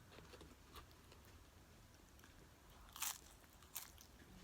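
A person eating nachos up close, chewing quietly, with two sharp crunches about three and four seconds in.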